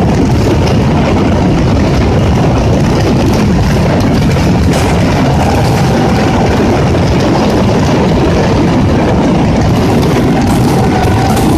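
Firecrackers of a Valencian mascletà going off so densely that they merge into a loud, continuous rumbling roar rather than separate bangs, with a faint short whistling tone now and then.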